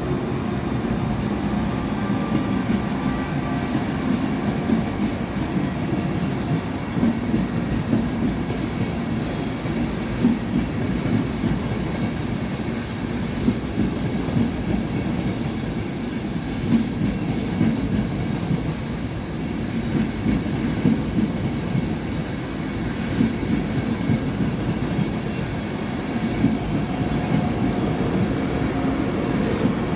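Train running past at a steady speed, its wheels clacking irregularly over the rail joints.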